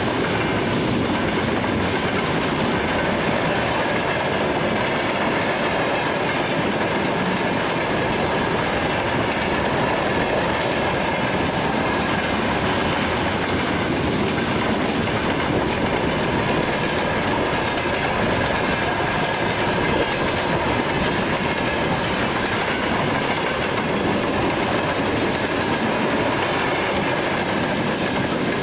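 A train running on the rails: a steady rumble with a faint high whine over it, unchanging throughout.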